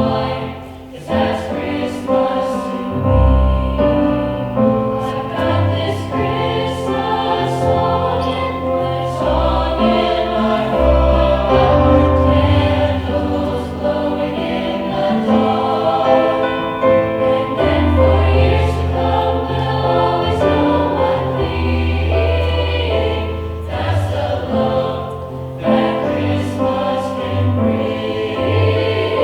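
School choir singing in harmony with instrumental accompaniment, low bass notes moving beneath the voices.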